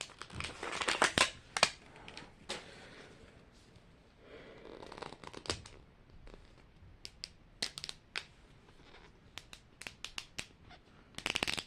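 Plastic packaging crinkling and tearing as a toy blind packet is opened by hand, with many small sharp clicks and taps scattered through it.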